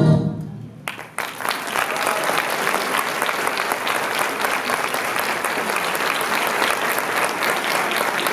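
Music dies away, and about a second in an audience breaks into steady applause.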